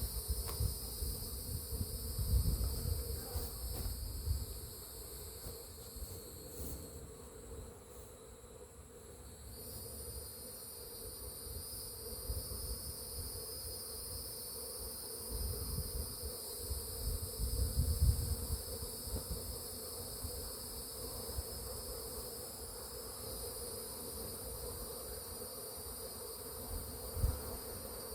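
A large swarm of honeybees buzzing in a steady hum, with a steady high-pitched trill above it. Irregular low rumbles come and go, strongest a couple of seconds in and again around the middle.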